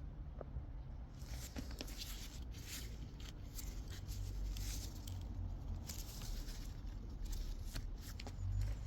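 Scattered rustling and small clicks over a low steady hum, starting about a second in.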